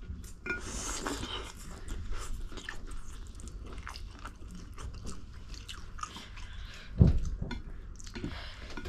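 Close-miked chewing and biting of food, a run of many small wet clicks, with one low thump about seven seconds in.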